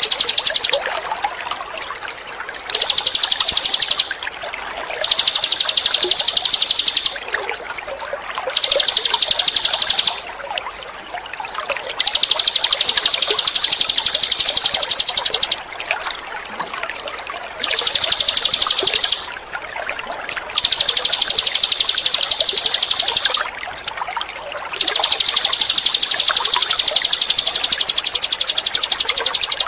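A ninin eurih bird's song: high, fast, buzzy trills, each lasting one to three seconds, repeated about nine times with short pauses. Under it runs a steady trickle of water.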